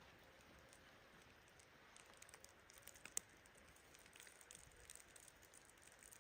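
Near silence with faint, scattered small clicks and crackles, and one sharper click about three seconds in.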